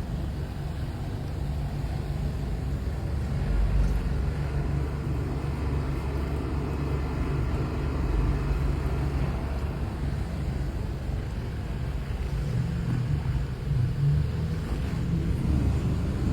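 Steady low rumble of a vehicle on the move, engine and road noise with no breaks.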